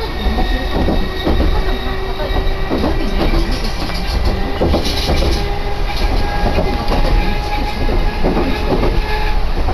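Chikuho Electric Railway train heard from inside the car while running: a steady low rumble with the wheels clacking over rail joints, and a steady hum that steps up in pitch about six seconds in.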